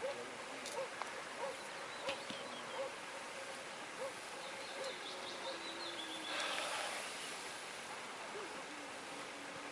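Woodland birds calling: one repeats a short note roughly every two-thirds of a second through the first half, and another gives a quick high run of notes about five seconds in. About six and a half seconds in there is a brief rustle.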